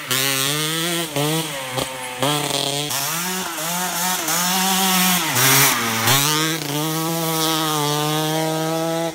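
Yamaha DT200R dirt bike's single-cylinder two-stroke engine revving up and down as it is ridden, its pitch climbing through the revs and dropping back several times. It holds a steady pitch over the last few seconds.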